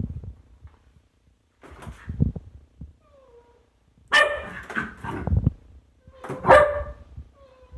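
A pet dog barking in short bursts during excited play, the loudest barks about four and six and a half seconds in.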